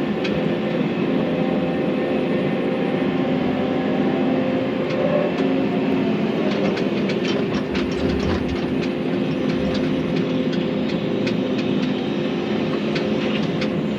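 Volvo excavator's diesel engine running steadily under load, with scattered sharp cracks and clatter as the machine breaks into a tree. The cracks come more often in the second half.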